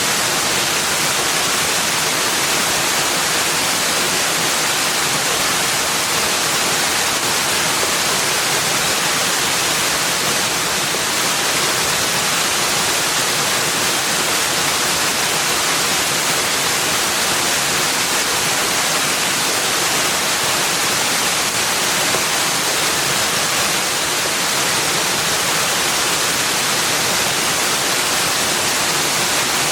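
Steady rushing of flowing water: an even hiss that holds the same level throughout, with no breaks or separate events.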